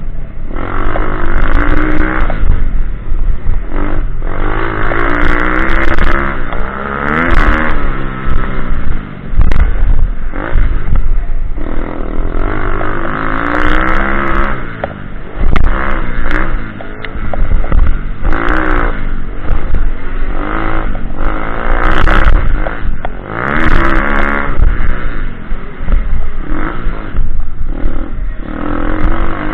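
Pit bike engine revving up and dropping back over and over, as when riding off-road laps, with a few short clattering knocks.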